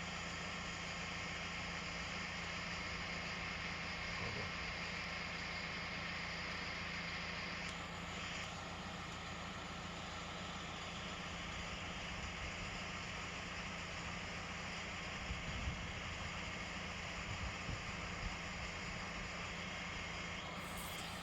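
Tractor engine running steadily, with a few light knocks near the end.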